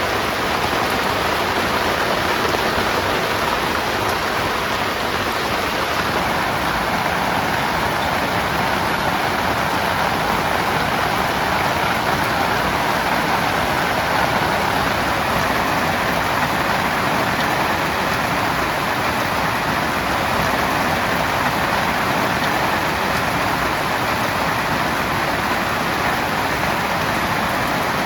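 Heavy rain falling steadily on a tent, an even hiss of drops with no breaks.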